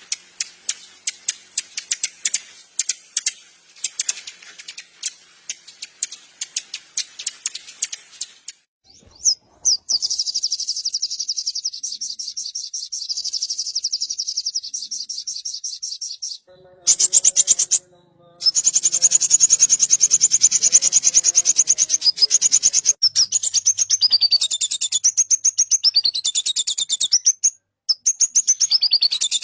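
Sunbird song: a run of sharp, rapid high chirps, then long fast high-pitched trills with sweeping whistled notes near the end, broken by a few abrupt cuts.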